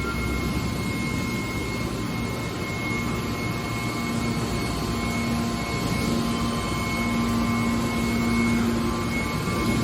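Hydraulic metal baler running: a steady machine hum with a constant high whine, and a lower drone that grows stronger about halfway through.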